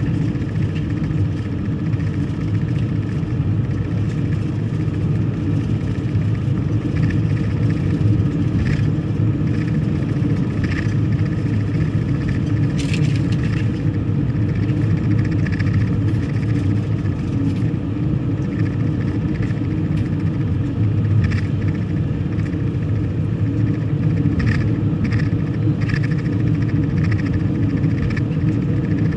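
A car driving at steady speed: a continuous low rumble of engine and road noise, with a few short ticks now and then.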